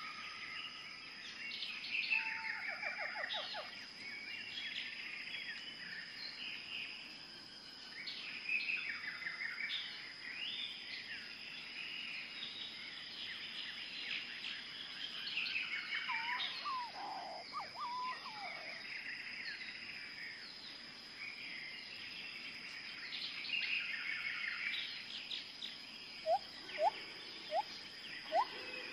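Small birds chirping and trilling, many short calls overlapping, over a steady high-pitched whine. Near the end, a run of short, loud rising whistles.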